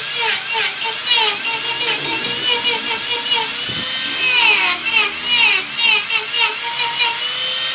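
Wood lathe turning a wooden blank while a cutting tool works it: a pitched squeal that repeats about three to four times a second over a hiss of cutting, with one longer falling squeal a little past the middle.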